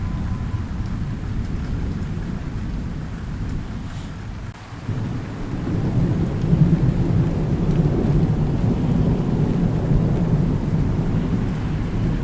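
Thunderstorm: low rolling thunder rumbling over steady rain. The rumble dips briefly about four seconds in, then swells again.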